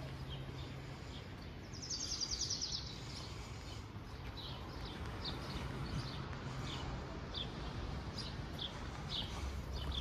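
Small birds chirping: short, high, falling chirps repeated throughout, with a rapid trill about two seconds in, over a steady outdoor background hiss.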